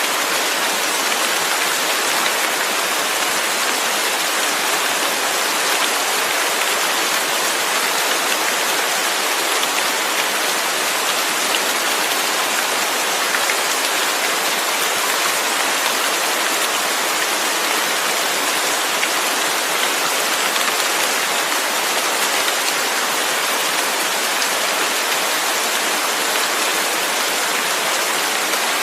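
Steady, dense rain falling, an even hiss without breaks or single drops standing out.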